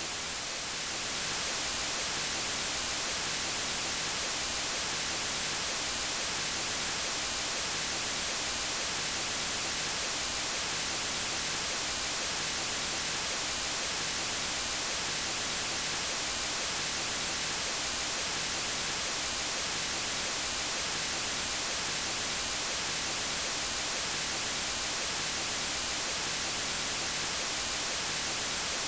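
Steady white noise: an even, full-band hiss with no tones or rhythm, dipping briefly in level about a second in.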